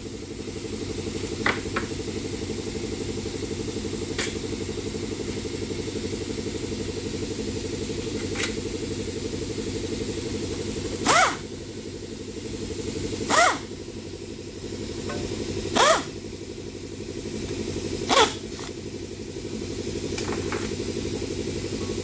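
Air compressor running steadily, with four short bursts of a pneumatic tool, each rising in pitch as it spins up, in the second half, plus a few light clicks of tools on metal earlier.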